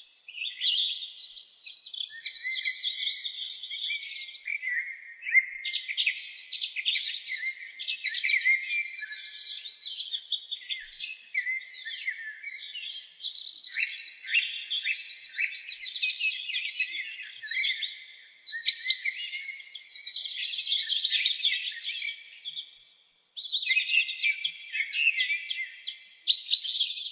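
Small songbirds chirping and twittering in rapid, continuous trills, with a couple of brief pauses partway through.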